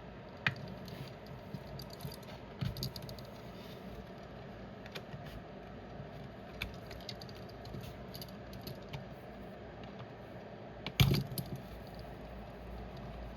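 Small plastic clicks, taps and rattles of a wireless headphone's housing being handled and pried apart with small tools, with a louder clack about eleven seconds in.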